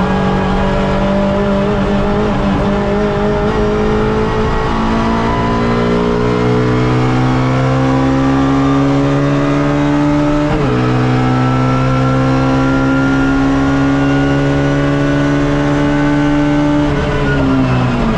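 Suzuki Swift race car engine heard from inside the car under hard acceleration, its pitch climbing steadily through a gear. About ten and a half seconds in a quick upshift drops the revs for an instant, then they climb again before falling away near the end as the driver comes off the throttle.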